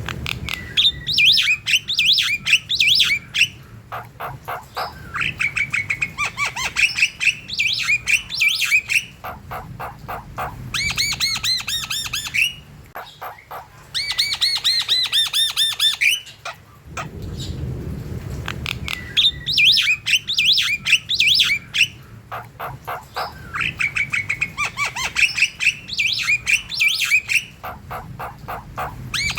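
Javan myna (jalak kebo) in full song: phrases of a few seconds made of fast runs of clicks and harsh, squawky chatter mixed with whistled notes, with short pauses between phrases.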